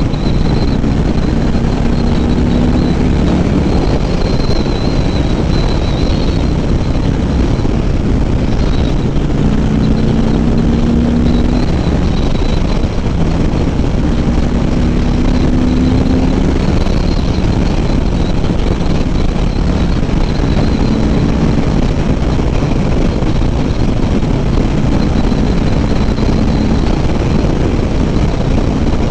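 1000cc motorcycle engine running under way, its pitch climbing slightly several times as the bike accelerates. Steady wind rush sounds on the helmet microphone.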